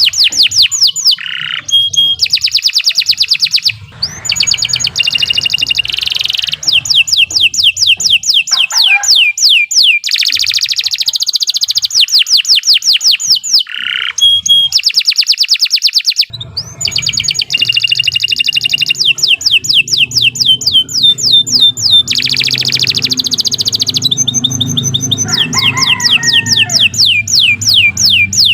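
Domestic canary singing a long continuous song of fast, high trills, switching from one repeated note to another every second or two, with brief pauses about four and sixteen seconds in. A faint low hum sits underneath in the second half.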